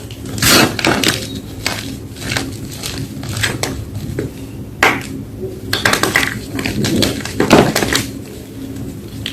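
Crumbly blocks of gym chalk being crushed, giving irregular crunches and crackles, the loudest about half a second in and again about seven and a half seconds in. A faint steady low hum lies underneath.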